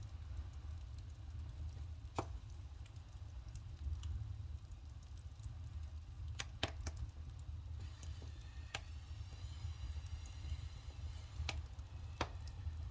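Burning firewood crackling, with sharp pops every second or few, over a low steady rumble. From a little past halfway, a wind chime rings for a few seconds.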